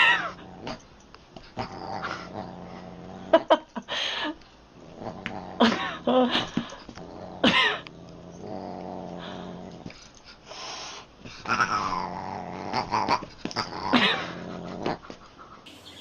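Pet animals growling and giving drawn-out yowling calls several times, the calls sliding up and down in pitch.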